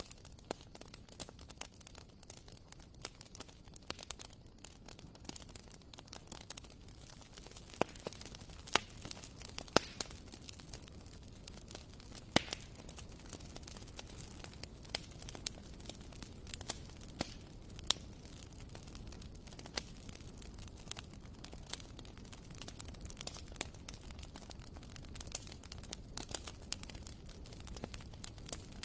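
Wood fire burning in a fireplace: irregular crackles and sharp pops, a few of them louder, over a steady low rumble of the flames.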